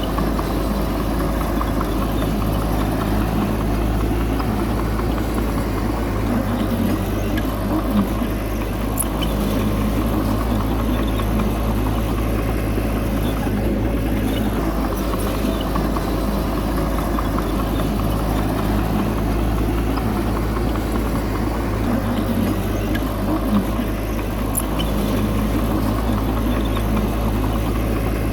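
Heavy diesel engine of earthmoving machinery running steadily with a deep rumble, with a couple of brief knocks.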